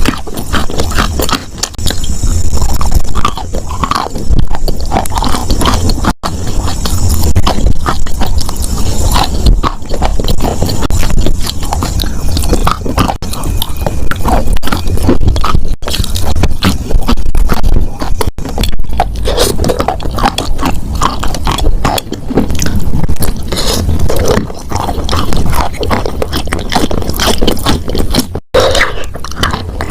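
Wet chalk being crunched: a loud, dense run of crumbling, grinding and scraping crackles.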